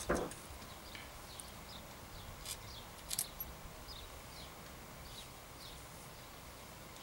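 Faint bird chirps in the background: short falling notes, one every second or so. A few light clicks come about two and a half and three seconds in as small parts are handled.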